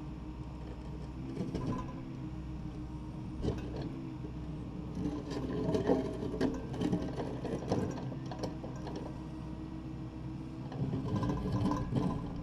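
Takeuchi TB260 excavator's diesel engine running steadily, with a run of sharp clanks and knocks a few seconds in and again near the end as it works the concrete floor.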